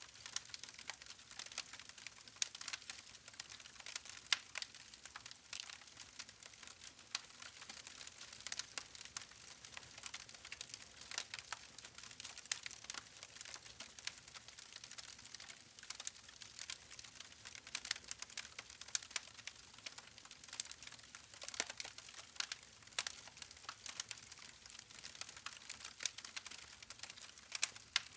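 Wood campfire crackling: a steady hiss of burning logs with frequent, irregular sharp pops and snaps.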